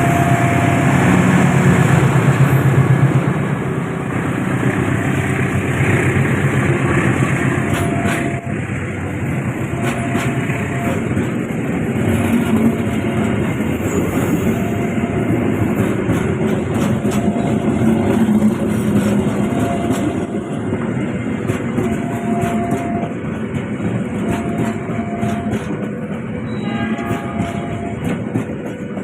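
A passing train: heavy running of the locomotive for the first few seconds, then the carriages rolling past with continuous wheel-on-rail rumble and clatter. A steady mid-pitched tone sounds on and off throughout.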